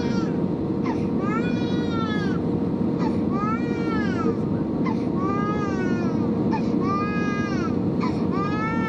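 An infant crying in repeated rising-and-falling wails, about one every second and a half, over the steady rumble of an airliner cabin with a constant hum.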